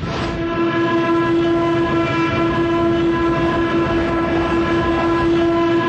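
A loud, steady horn-like blare with rumbling noise beneath, held for about six seconds at one pitch and then cut off sharply.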